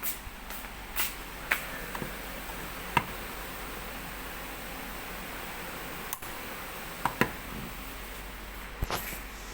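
Mistral ceiling fan running with a steady rush of air, broken by a handful of sharp, irregularly spaced clicks.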